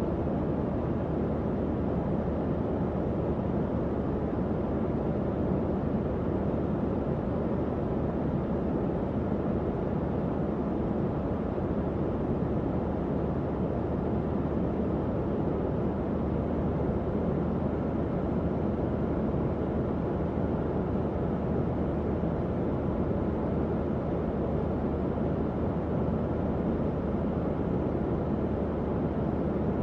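Tower fan running steadily: an even, low whooshing rush of air with no changes.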